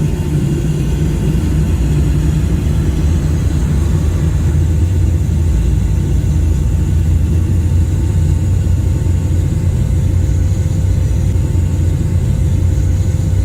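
Steady cabin noise of a Boeing 757-200 airliner in cruise: an even low rumble of engines and airflow with a faint hum.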